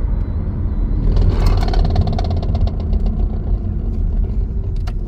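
Car driving with a steady low road rumble. From about a second in, a rapid rattle from the front end lasts about two seconds as the brakes are applied. The mechanic traces it to a loose engine cover panel that is missing its push clip, shaken by vibration from warped front rotors.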